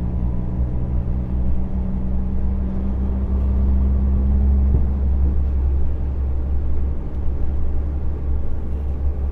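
Heavy lorry driving: steady diesel engine drone and low road rumble. The engine's hum fades about five seconds in while the deep rumble carries on.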